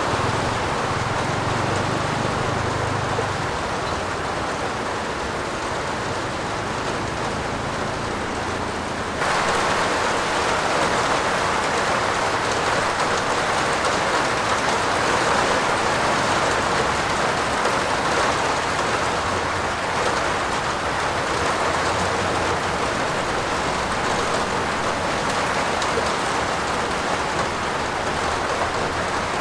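Heavy rain falling on a roof, a steady dense hiss. About nine seconds in it turns suddenly louder and brighter, then holds steady.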